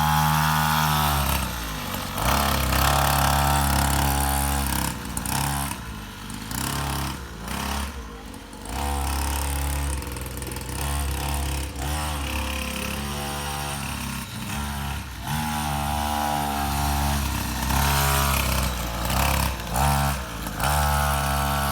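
Small 50cc pit bike engine revving up and easing off again and again as it is ridden, its pitch rising and falling with the throttle.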